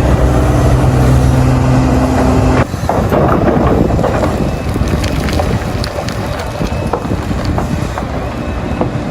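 Heavy diesel mining machinery: a steady engine drone, which changes suddenly about two and a half seconds in to a rougher, noisier machine sound with scattered knocks.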